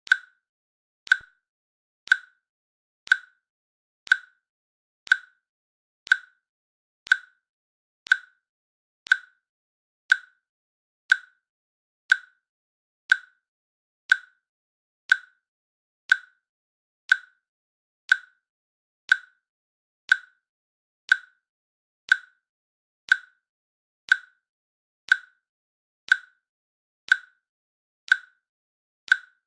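Countdown timer's click sound, a short sharp tick once every second at a perfectly steady pace, marking off the seconds.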